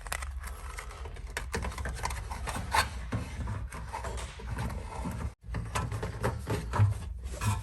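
Scraps of Dynamat sound-deadening mat being handled, rubbed and pressed onto the sheet metal inside a car door, giving irregular scratchy rubbing sounds. A steady low hum runs underneath, and the sound drops out briefly twice.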